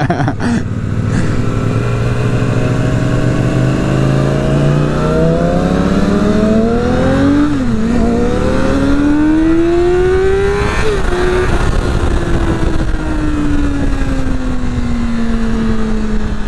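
Yamaha R6 sport bike's inline-four engine accelerating hard while riding: the pitch climbs, drops briefly at an upshift about eight seconds in, climbs again to a high pitch, then falls slowly as the rider eases off after another shift near eleven seconds.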